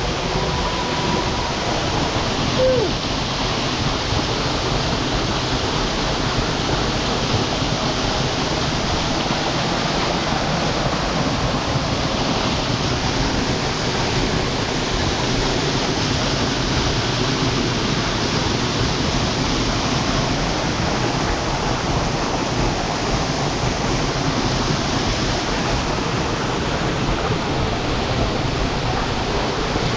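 Steady rush of hot spring water pouring and splashing in a pool, an even noise without pauses.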